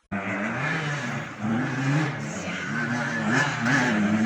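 Dirt bike engine revving up and down repeatedly under riding load, cutting in abruptly.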